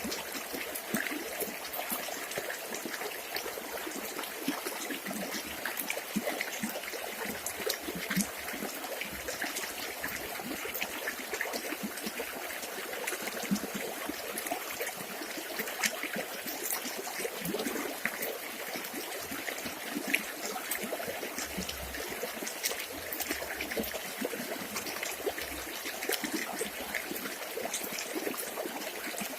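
Village river water flowing steadily, a continuous trickling and babbling with many small splashes.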